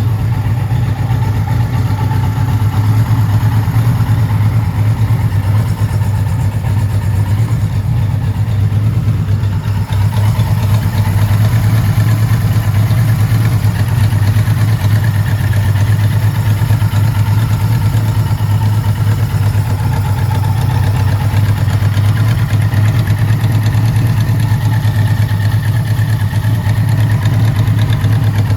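1979 Kawasaki Z1000ST's air-cooled 1015 cc inline-four engine, fitted with pod air filters, running at a steady idle with little change in pitch.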